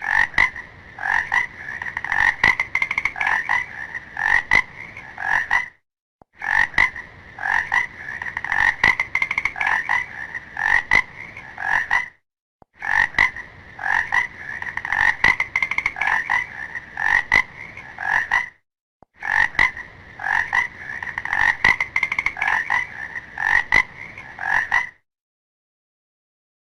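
Frog croaking in rapid runs of pulsed calls, in four bouts of about six seconds each with brief pauses between them.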